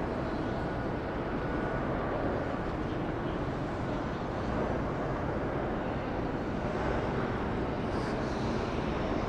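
Steady rushing jet noise from an Embraer E-175 regional jet's turbofan engines, without a clear pitch.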